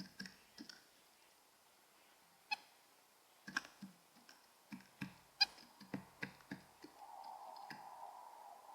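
Irregular sharp taps and clicks of a white-breasted nuthatch's bill pecking at seed on a plastic bird feeder, with a soft steady hiss coming in about seven seconds in.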